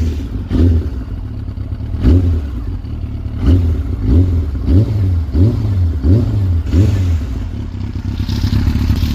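Yamaha YZF-R6 inline-four sportbike engine being blipped on the throttle: a run of short, quick revs over a steady idle, coming fast one after another through the middle, then settling to idle near the end.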